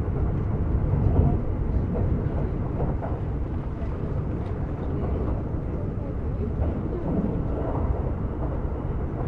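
Steady low rumble of a Kintetsu 50000 series Shimakaze limited express running on the line, heard inside the passenger cabin.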